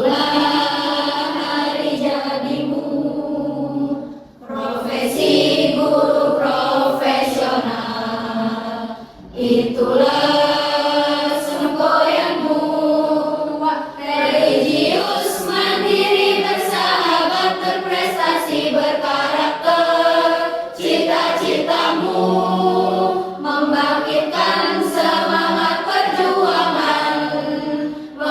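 A choir singing together, with short breaks between phrases about 4 and 9 seconds in.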